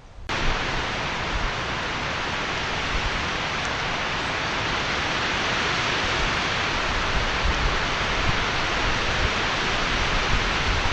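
Steady, even hiss that sets in abruptly just after the start and holds level throughout.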